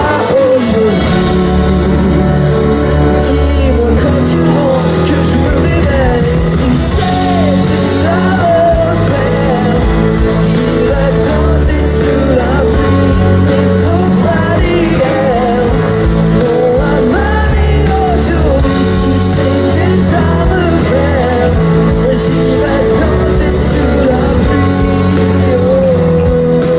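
Live pop-rock band playing the song's outro, with guitar, bass and drums, and wordless singing over it.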